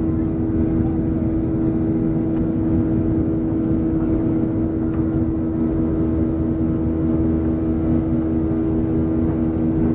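Steady drone of a Boeing 737-800's CFM56 jet engines heard from inside the passenger cabin: a constant hum at a few fixed pitches over a steady rush of air.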